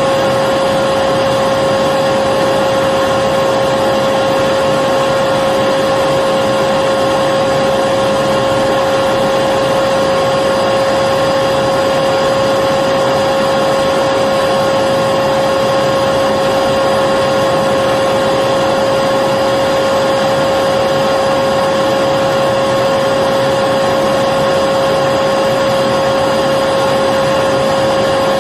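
Electric vacuum cleaner running steadily, a continuous whine with a high motor tone over a rushing hiss, unchanging throughout.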